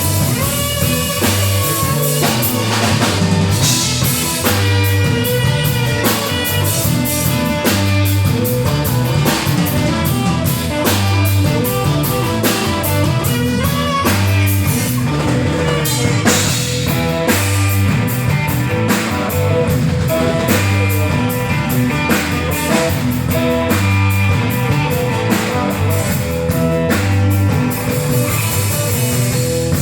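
Rock band playing an instrumental stretch: a drum kit keeps a steady beat under guitar, and a low bass line repeats about every two seconds.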